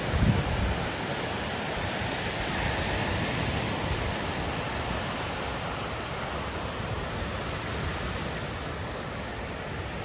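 Ocean surf from a typhoon swell, a steady wash of breaking waves, with a brief low rumble of wind on the microphone at the start.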